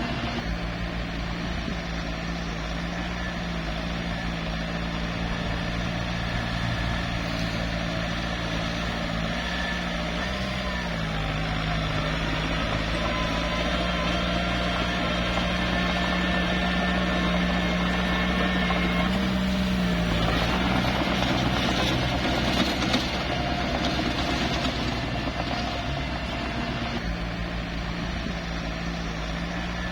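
Small bulldozer's diesel engine running steadily under work, its pitch rising briefly twice, about a third of the way in and again about two-thirds through.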